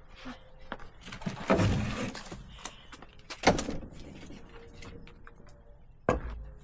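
Split firewood logs knocking against each other as they are set onto a stack: three loud wooden thunks spaced two to three seconds apart.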